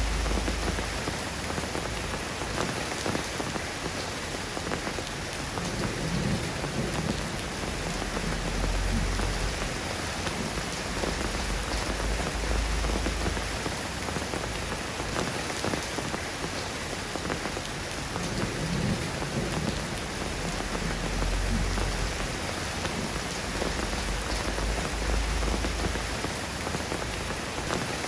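Steady rain falling and pattering on surfaces, with low rumbles of thunder that swell and fade several times.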